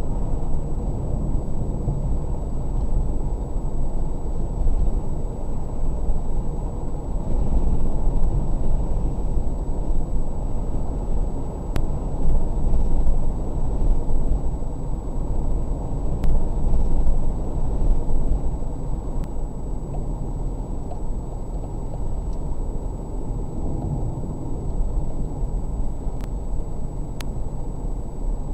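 Car driving, heard through a dash cam: steady low road and engine rumble, with a thin steady high tone and a few sharp clicks.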